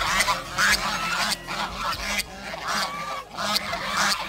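Swan calling: a string of short honks of bending pitch, about two a second.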